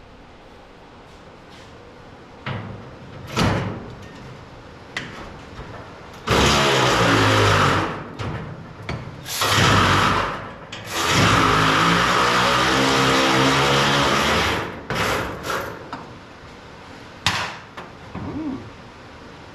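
A power tool runs in three bursts of a few seconds each in the middle, working on the truck's hood-spring fastenings. Sharp metallic knocks and clanks come before and after the bursts.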